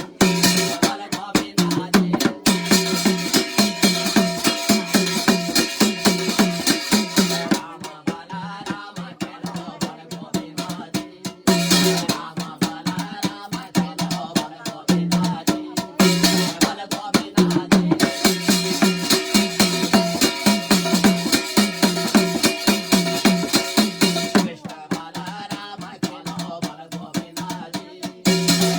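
Instrumental interlude of Garhwali jagar folk music: a fast, steady drum beat with a sustained pitched instrument joining in louder stretches.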